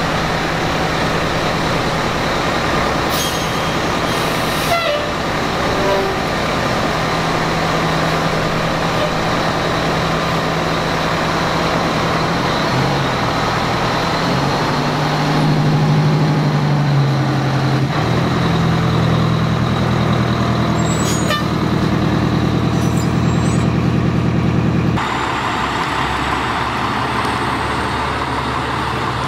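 Fire truck's diesel engine running loudly, its pitch shifting as the truck moves off. The sound changes abruptly near the end.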